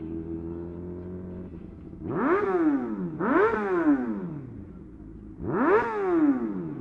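Sport bike engine idling, then revved in three quick throttle blips, each climbing sharply in pitch and falling back to idle.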